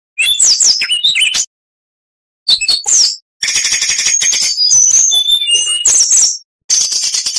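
Oriental magpie-robin (kacer) singing loud, rapid phrases of whistled sweeps, chattering notes and held high whistles. The phrases stop abruptly into dead-silent gaps twice, as in an edited recording.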